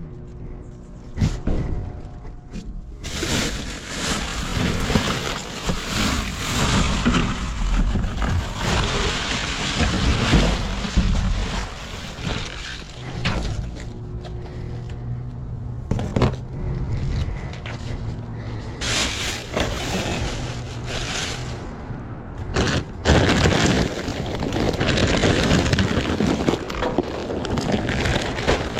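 Rummaging through a dumpster: trash and objects rustling, scraping and clattering, with a few sharp knocks.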